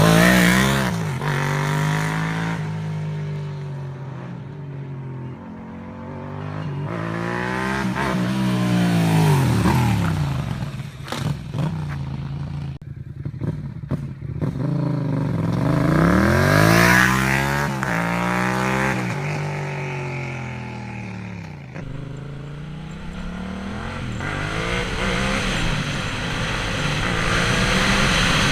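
Yamaha MT-07's parallel-twin engine through an Arrow aftermarket exhaust, revving up hard and dropping back several times as the bike accelerates, loudest about 9 and 17 seconds in. Around halfway, as the revs fall, there are a few sharp pops.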